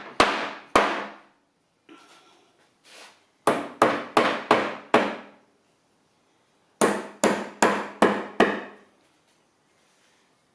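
Rubber mallet, wrapped in a cloth, striking a wooden table frame in three bursts of hard taps: two, then five in quick succession, then five more. The blows knock the table base and top back together to close a gap that makes the leg wobble.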